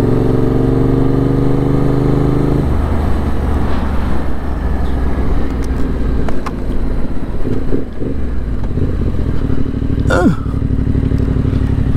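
Yamaha 689 cc parallel-twin motorcycle engine under way. About two and a half seconds in, the engine note drops as the bike slows, then runs on at a lower, rougher note.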